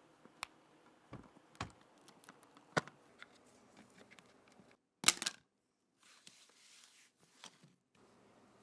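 Sparse light clicks and taps, as of small hard parts being handled, with a sharper cluster of clicks about five seconds in.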